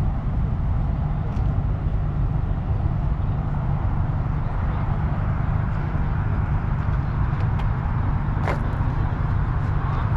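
Steady low rumble of a car engine running, with a faint brief high squeal about three-quarters of the way through.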